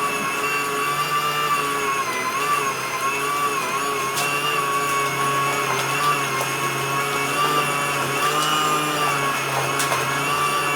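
Washing machine motor running, a steady whine that wavers slightly in pitch over a low hum.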